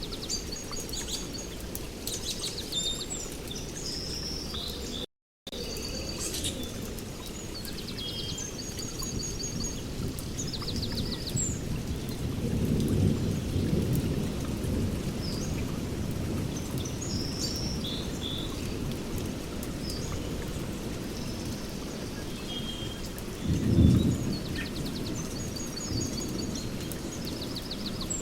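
Steady heavy rain with thunder: a low rumble swells around halfway, and a short, sharp clap, the loudest sound, comes near the end. Birds chirp repeatedly over the rain, and the sound drops out completely for a moment about five seconds in.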